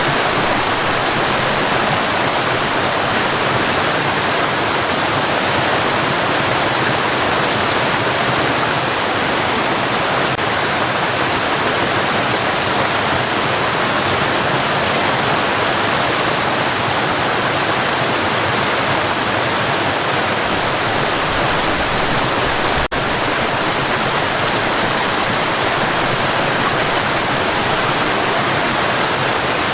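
Steady white noise, an even hiss that never changes, with a split-second dropout about two-thirds of the way through.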